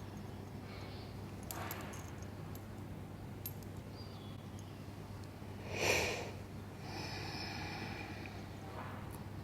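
A single short breath close to the microphone about six seconds in. Underneath are a steady low hum and faint birdsong.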